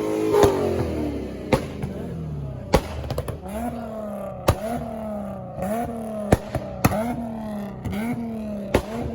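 A car engine revving over and over during a burnout: its pitch winds down over the first couple of seconds, then repeatedly jumps up and falls back, with sharp cracks in between.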